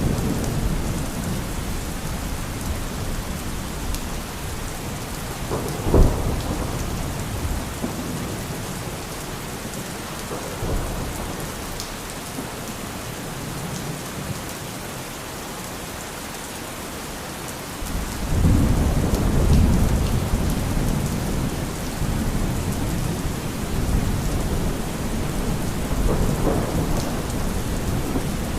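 Thunderstorm: steady heavy rain, a sharp thunderclap about six seconds in, and a long low rumble of thunder from about eighteen seconds in, with a fainter rumble near the end.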